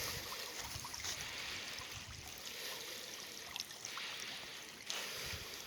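Water of a slow creek flowing steadily, with soft low bumps from the microphone.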